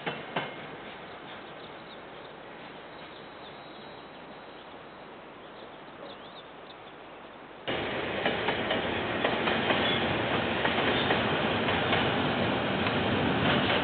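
Freight train wagons rolling past on the rails, clattering and clicking over the joints. The sound starts abruptly and loud about eight seconds in, after a quieter stretch with a couple of clicks at the start as an earlier train's last wagons move away. It is heard through a security camera's narrow-band microphone.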